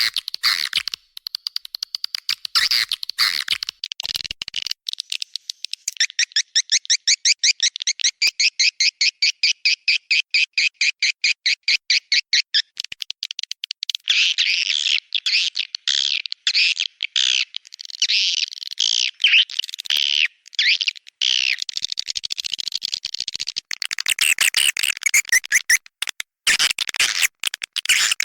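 Swiftlet lure call track: recorded swiftlet twittering, with fast chirps and trills and a long run of quick, evenly spaced chirps in the middle. It is played in swiftlet houses to draw swiftlets in to roost and nest.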